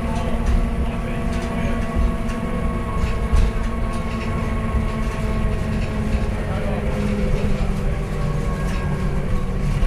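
Scania K230UB bus running along steadily, its diesel engine giving a deep rumble with a steady drivetrain hum over it and occasional light rattles.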